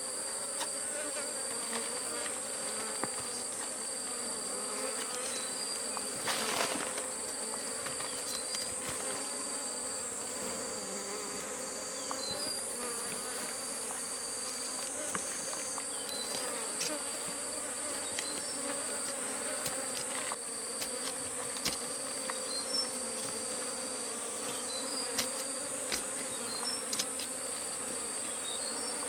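Honeybees buzzing around their nest in a steady, wavering hum, over a continuous high-pitched insect drone from the surrounding forest. A brief rustle about six and a half seconds in.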